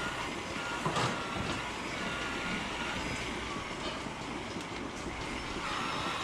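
Steady machinery noise, with a sharp knock about a second in.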